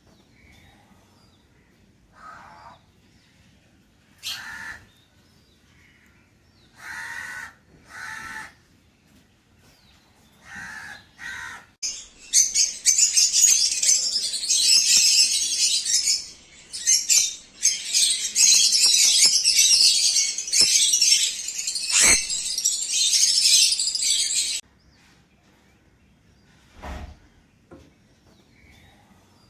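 Small pet parrots (lovebirds and sun conures) calling: scattered short shrill calls, then a loud, continuous burst of high shrill chattering and screeching lasting about twelve seconds that cuts off suddenly, followed by a couple more single calls.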